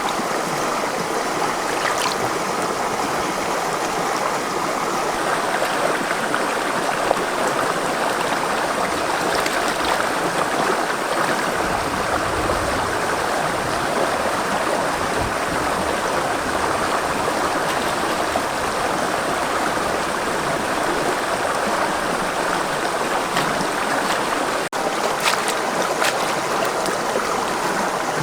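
Steady rushing of running water, like a forest stream, with a few small clicks over it.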